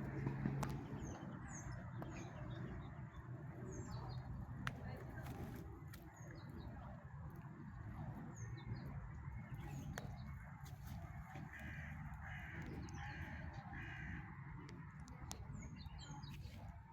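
Birds calling: short, high, repeated chirps throughout, with four evenly spaced harsher calls a little past the middle, over a steady low rumble.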